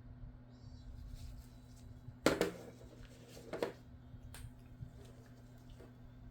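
A few knocks and scrapes of an eating utensil against a dish. The loudest knock, with a short scrape, comes about two seconds in, a second scrape follows a little over a second later, then a couple of light clicks, all over a steady low hum.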